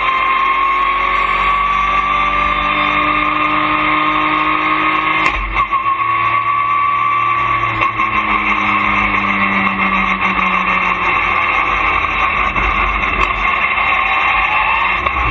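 Porsche race car engine running hard, heard from inside the cockpit, its pitch creeping upward, with short breaks and dips in loudness about five and eight seconds in, at the gear changes.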